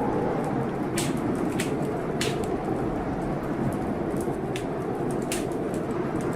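Heavy blizzard wind blowing steadily with a slowly wavering tone, while a wood fire in a fireplace crackles with a sharp pop every second or so.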